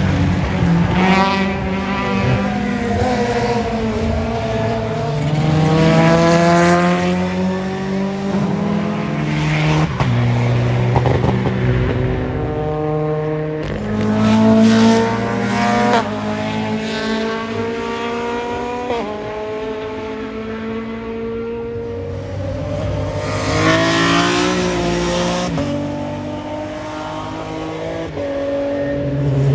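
Rally car engines accelerating hard past on the circuit, one car after another, each engine note climbing in pitch and dropping back at every gear change.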